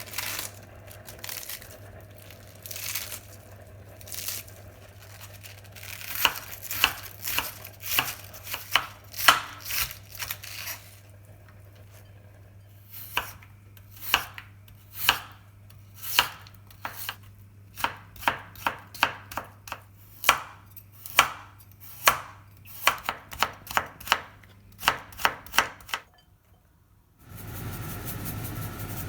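Kitchen knife chopping food on a cutting board: sharp, irregular strikes, sparse at first, then in runs of about one to two a second. The chopping stops shortly before the end, and after a brief silence a steady hiss takes over.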